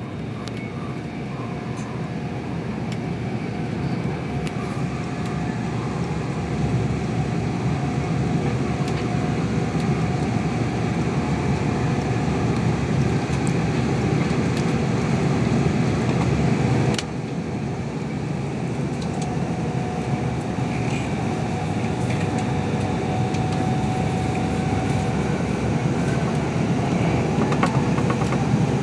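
A moving passenger train heard from inside the carriage: a steady rumble and rush of running noise with a faint steady whine. The sound drops abruptly about seventeen seconds in, then carries on as before.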